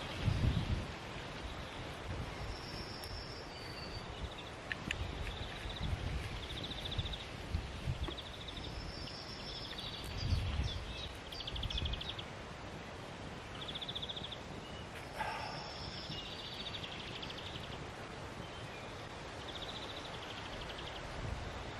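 Wind gusting over the microphone, with small birds singing short high trills and whistled phrases every couple of seconds.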